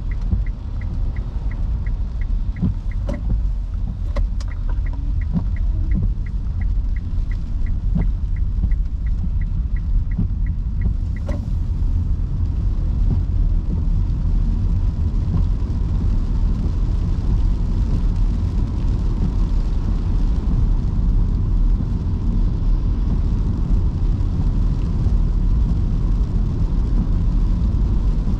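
Nissan Leaf electric car driving on wet city streets in heavy rain, heard from inside the cabin: a steady low rumble of tyres and road with no engine note. A quick regular ticking runs until about eleven seconds in, then stops.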